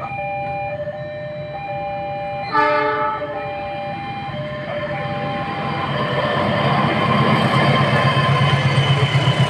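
A KAI diesel-electric locomotive hauling the Argo Dwipangga passenger train gives one short horn blast about two and a half seconds in. From about five seconds in, its engine and wheels grow steadily louder as it approaches and comes past. An alternating two-note electronic warning tone sounds through the first five seconds.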